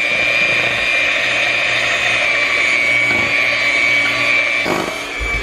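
Electric kitchen mixer running steadily with a high motor whine, beating cake batter.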